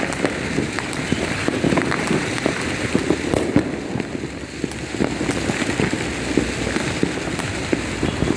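Dense, continuous crackling and popping of many fireworks and firecrackers going off at once, with a few louder bangs standing out.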